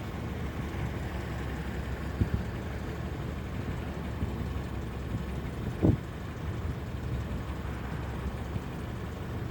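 Car engine idling steadily, heard from inside the vehicle, with a short thump about six seconds in.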